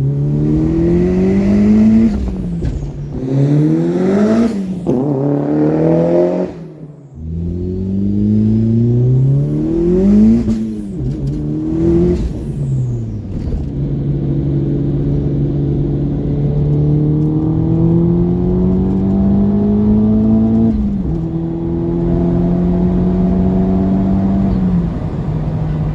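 Turbocharged 1.8-litre four-cylinder of a 1999 Audi A4 1.8T, fitted with a Pulsar G25-660 turbo and a 3-inch turbo-back exhaust, accelerating through the gears. The revs climb and drop sharply at each shift, several times in quick succession at first, then in longer, slower pulls.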